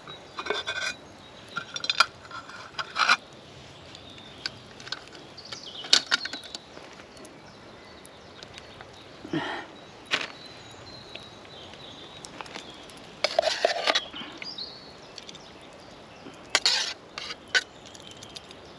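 Scattered clinks and knocks of cutlery against plates and pans while a meal is dished up, with a few short clusters of clatter.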